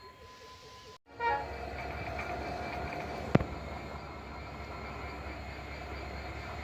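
Sri Lanka Railways Class M11 diesel-electric locomotive and freight train running, a steady rumble with several held whining tones that starts suddenly about a second in, with one sharp clank a little over three seconds in.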